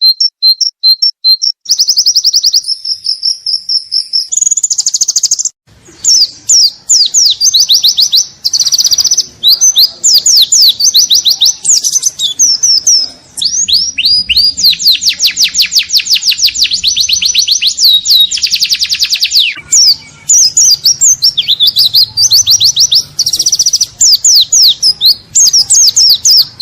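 Pleci (white-eye) singing a wild-style 'ngalas' song: a loud, nearly unbroken stream of high chirps and fast trills, with one long rapid trill in the middle that falls in pitch as it ends.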